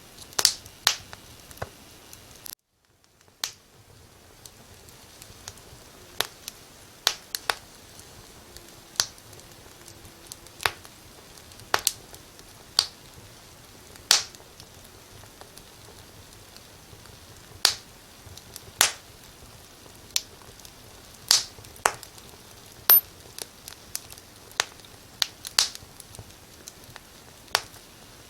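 Wood fire in a fireplace crackling: irregular sharp pops and snaps over a soft steady hiss. The sound cuts out for about a second near the start, then resumes.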